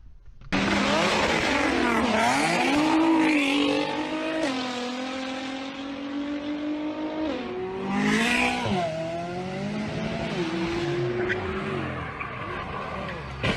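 A car engine revving hard, its pitch climbing and then stepping down a few times as the gears change, with rises and falls as the throttle comes on and off.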